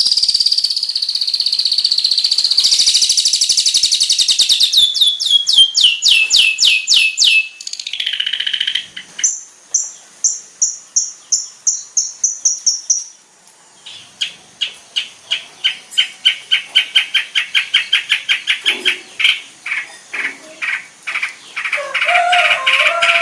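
Long-tailed shrike (cendet) song: fast chattering trills. The first is a rapid run of notes that falls in pitch, then comes a string of evenly spaced high notes, and after a short gap a long, fast rattle of repeated notes with some lower buzzy notes near the end.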